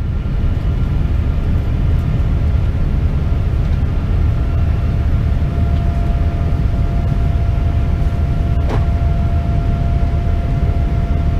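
Steady low cabin noise of a Boeing 787-10 climbing after takeoff: jet engines and airflow heard from inside the cabin. A faint steady tone comes in about four seconds in, and there is a brief click near the end.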